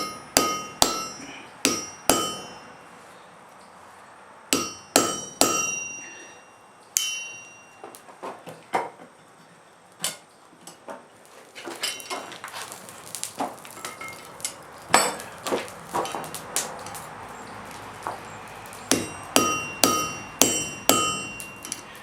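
Blacksmith's hand hammer striking hot wrought iron on an anvil in groups of a few blows, the anvil ringing after the harder strikes. The middle stretch is lighter, quicker taps, as in fine shaping of the edges.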